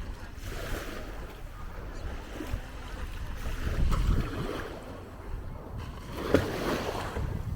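Beach ambience: small waves washing onto the shore in swells, with wind rumbling on the microphone. A short sharp knock about six seconds in.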